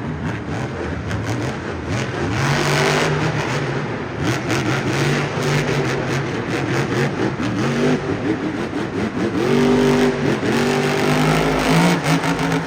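Monster Jam truck El Toro Loco's supercharged V8 revving over and over, its pitch climbing and falling with each rev. The revs are loudest about ten seconds in.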